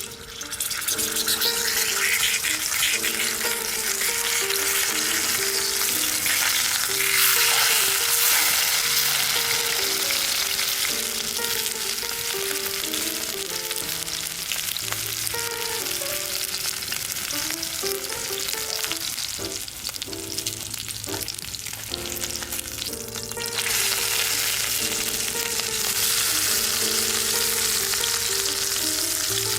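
Food sizzling and frying in a hot pan, with a steady crackling hiss that eases for a few seconds about twenty seconds in. Light background music plays underneath.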